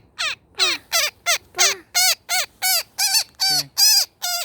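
A woodpecker caught in a net giving a rapid series of harsh distress calls, about three a second, each call falling in pitch.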